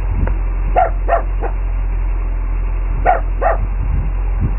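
A dog barking: three quick barks about a second in and two more about three seconds in, over a steady low rumble.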